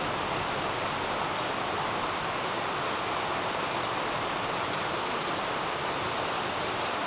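Rain falling steadily during a thunderstorm: an even, unbroken hiss.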